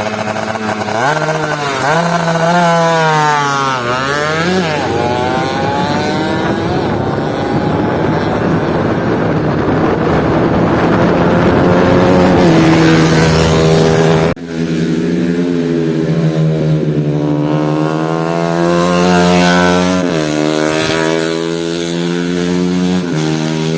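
Motocross motorcycle engines revving at full throttle, the pitch climbing and dropping again and again as the bikes accelerate and shift. The sound breaks off suddenly about two-thirds of the way through and picks up again with more steady revving.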